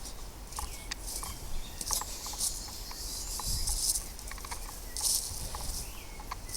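Footsteps crunching and brushing along an overgrown woodland path, about one a second, with faint bird chirps and a low rumble of wind on the microphone.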